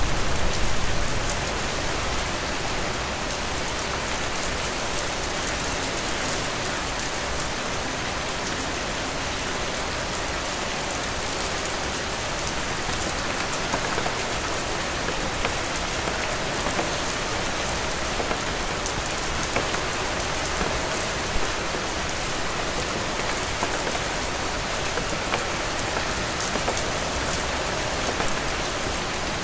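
Heavy rain falling steadily, a dense even hiss of drops with fine patters of individual drops striking a surface.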